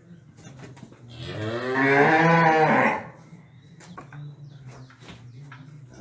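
A cow moos once, a call of about two seconds that arches up and back down in pitch, starting about a second in. Afterwards only a low background hum with a few faint clicks remains.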